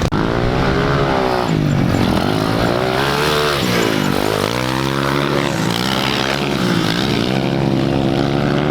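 Small dirt bike engine revving up and falling off again about four times, its pitch climbing and dropping with each throttle cycle as the bike is ridden around the track.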